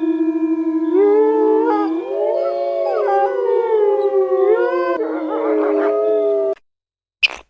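Several dogs howling together in long, overlapping, wavering howls that cut off suddenly about six and a half seconds in. A short sharp click follows near the end.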